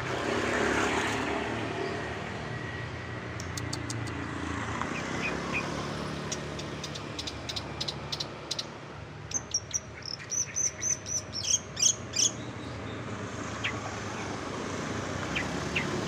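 Songbird calling in short phrases: a few quick ticking notes, then a fast run of high chirps about two-thirds of the way through. A steady low background rumble runs underneath.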